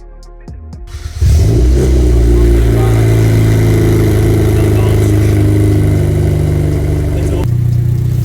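Hyundai i30N's 2.0-litre turbocharged four-cylinder, heard through a newly fitted full exhaust system with a sports cat, starting up loudly about a second in. It flares briefly, then settles into a steady, loud idle, and the note drops a little near the end.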